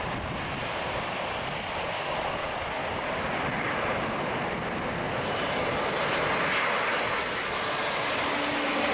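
Boeing 737-700 BBJ's CFM56-7B turbofan jet engines on landing approach: a steady jet rush that slowly grows louder.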